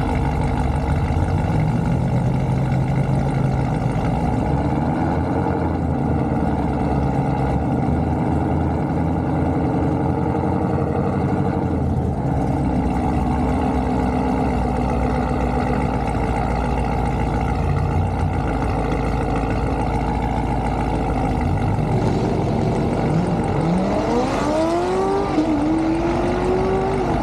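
Drag cars' engines running steadily, then revving up with rising pitch in the last few seconds as a car accelerates.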